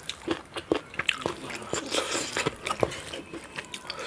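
A person eating close to the microphone: irregular crisp crunching bites and chewing, many short crunches a second.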